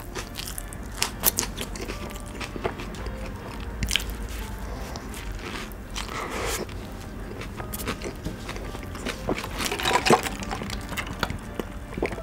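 Close-miked chewing and biting of a bulgogi burger, with many small clicks; a bigger bite into the soft bun about six seconds in.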